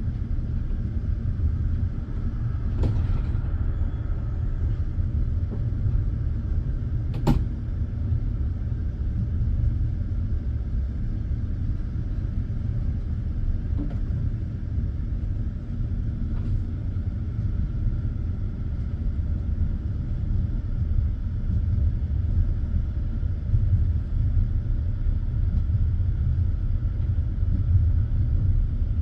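Passenger railway carriage rolling along the track, heard from inside: a steady low rumble of the wheels on the rails. A few sharp knocks come through it, the loudest two about three and seven seconds in.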